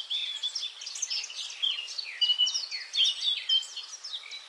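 Several songbirds chirping and singing at once, many quick overlapping notes and short falling glides, over a steady background hiss.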